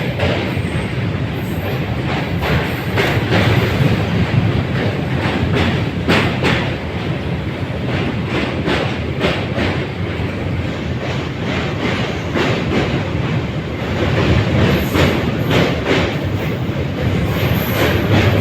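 Train running across a railway bridge: a steady loud rumble with the wheels clacking irregularly over the rail joints.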